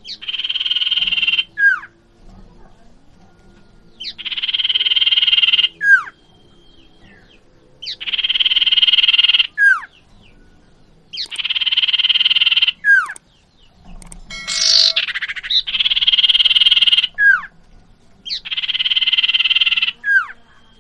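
Common iora (cipoh) calling: a buzzy trill of about a second and a half ending in a short falling whistle, repeated six times at even spacing, with one sharper, different call about two thirds of the way through.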